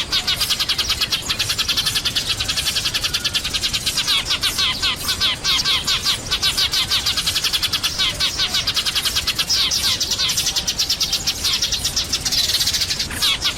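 A flock of sparrows chirping continuously, many birds calling over one another in a dense run of rapid, high chirps.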